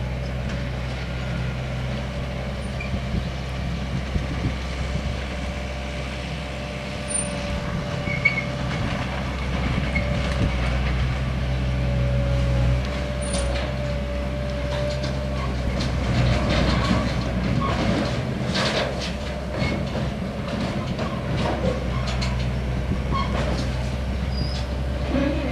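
Train approaching a closed level crossing while still out of sight: a steady low rumble with a faint wavering whine from the rails, and rail clicks that come more often in the second half.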